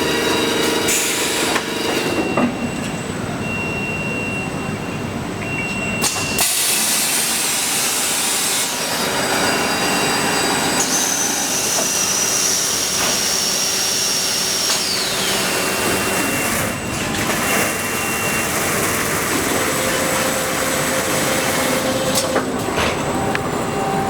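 Motor-factory production machinery running: a steady wash of mechanical noise and hiss, with several high whining tones that start and stop. One of them slides down in pitch about fifteen seconds in.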